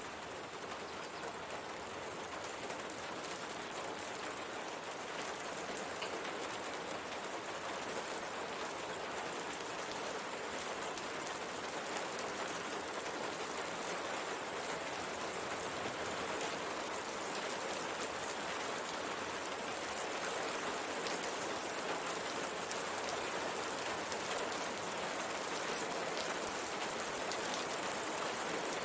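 Steady rain falling, with raindrops pattering on a window pane.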